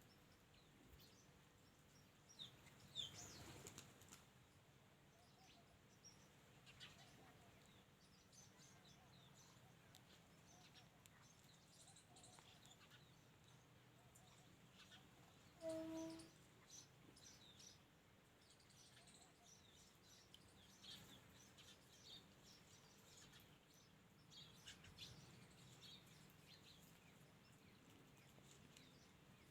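Faint chirping and twittering of several small birds, short scattered calls throughout. About halfway through, a brief low pitched call stands out as the loudest sound.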